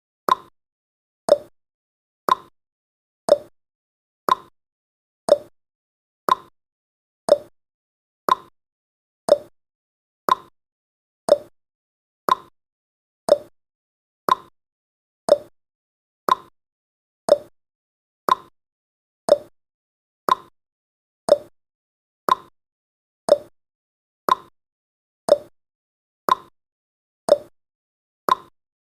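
A countdown timer's tick sound effect: a short, sharp plop-like tick once every second, each decaying at once, in a steady even rhythm.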